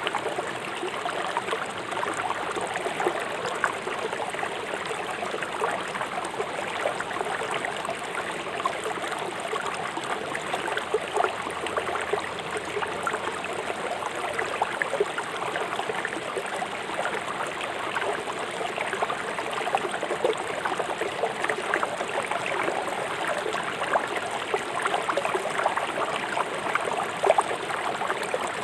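A river flowing swiftly over stones: a steady rush of water with constant small splashes and gurgles.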